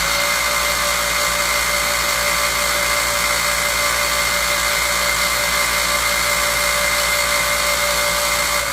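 Electric drill running at a steady speed, drilling a hole in a cast iron casting, with a steady whine that drops away right at the end as the motor winds down.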